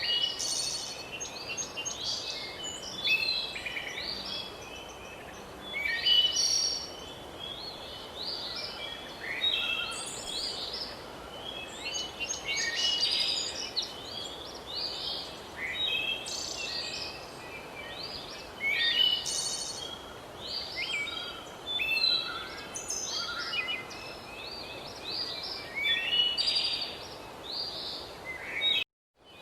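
Many songbirds chirping and singing at once in quick, overlapping phrases over a steady background hiss of outdoor ambience. The sound cuts out briefly just before the end.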